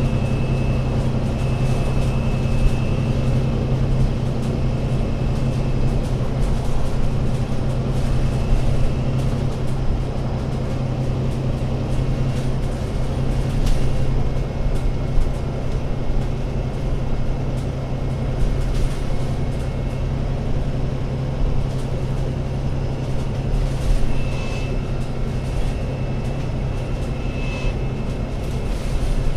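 ADL Enviro500 MMC Euro 6 double-decker bus's diesel engine running at a steady, unchanging speed, a constant low drone. A faint high whine comes and goes over it, with a few light knocks.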